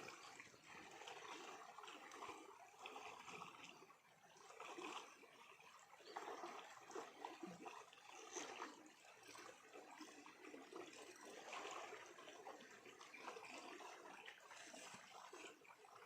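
Faint flowing stream water trickling and gurgling in uneven surges.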